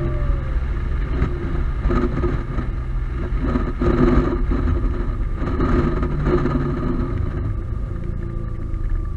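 Single-turbo Audi A4 3.0 V6 heard from inside the cabin while driving, with road noise and a louder, rougher stretch in the middle.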